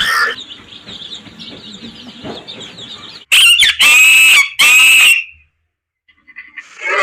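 Rooster crowing: three loud pitched calls in quick succession about three seconds in, after a quieter stretch of farmyard bird sound, then a brief silence.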